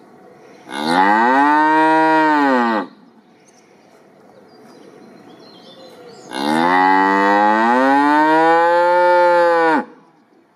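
A cow mooing twice: two long moos, each rising and then falling in pitch, the second one longer.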